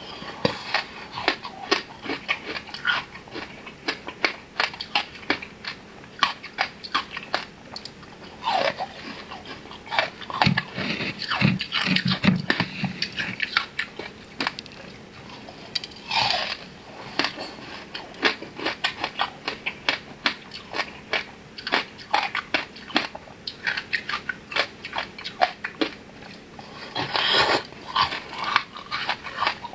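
Close-miked eating: soft flower-shaped cakes being bitten and chewed, with many irregular small smacking and clicking mouth sounds.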